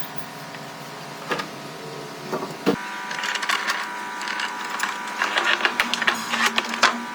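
Workshop sounds: a steady machine hum with irregular clicks and knocks from work on wood. The hum changes and grows louder with a sharp knock about two and a half seconds in, and the clicking becomes denser after that.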